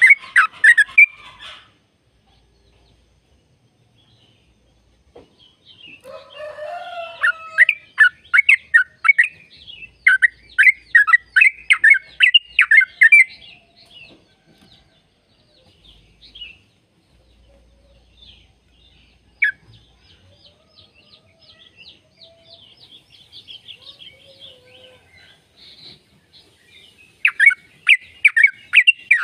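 Yellow-vented bulbul singing in quick bursts of rapid, chattering notes. A long phrase runs from about six to fourteen seconds in, then a quieter stretch of scattered notes, then loud phrases again near the end.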